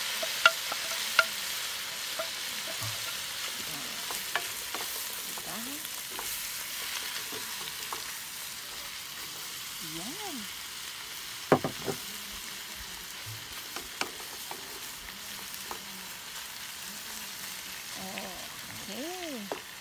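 Sliced shiitake mushrooms sizzling in hot oil in a wok while being stirred with a wooden spoon, with scattered sharp clicks of the spoon against the pan. The sizzle eases off slightly as the mushrooms settle.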